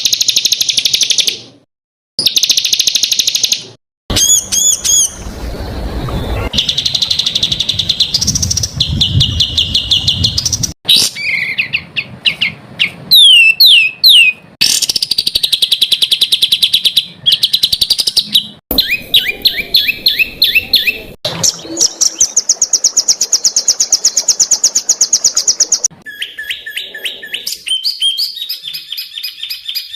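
Small songbirds singing in a run of spliced recordings: dense, rapid trills and fast strings of harsh repeated notes, high-pitched, with the song changing abruptly every few seconds as one recording cuts to the next. This is bird-training tutor song of rapid, harsh bursts.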